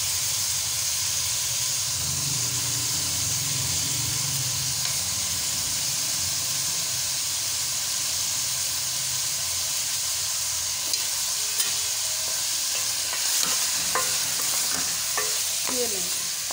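Chicken pieces, onion and tomatoes sizzling steadily in hot oil in a metal pot while being stirred with a wooden spoon, with a few light clicks in the second half.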